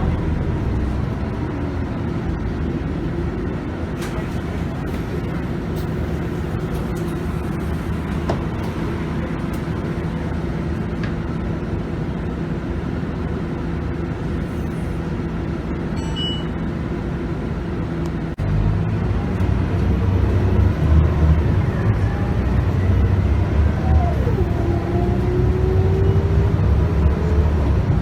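Scania DC9 five-cylinder diesel engine of a Scania K280UB bus with a ZF Ecomat automatic gearbox, heard from inside the bus, running steadily under way. About two-thirds of the way through it gets louder as the bus pulls harder, and a faint tone slides upward near the end.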